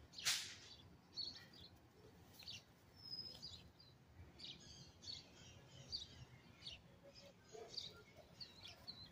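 Small birds chirping in short, high calls, faint against the garden background. A single sharp click-like noise just after the start is the loudest sound.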